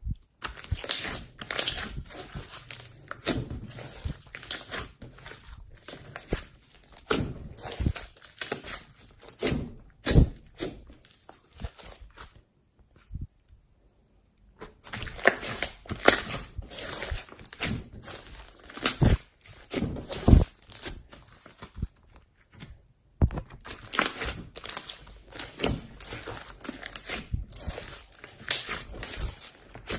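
Slime being squeezed, stretched and poked by hand, making sticky crackling and popping sounds in irregular bursts, with two short pauses.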